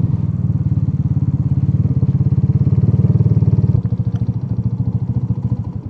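Yamaha YB-1 moped engine running with a steady, fast putter. It gets quieter about two-thirds of the way through and cuts off at the end.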